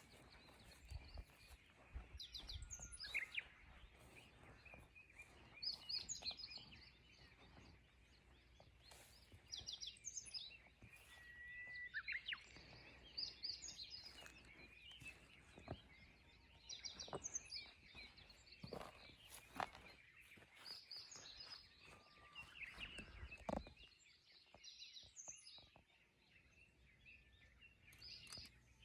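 Small birds chirping outdoors in short high bursts every few seconds, with scattered faint clicks.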